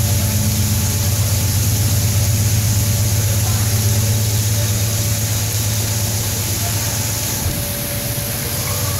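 Coal train's cars rolling past at a distance: a steady low rumble over a steady high hiss, easing slightly near the end.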